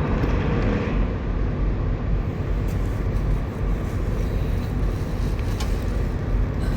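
Steady low rumble of idling truck engines, with a few faint knocks.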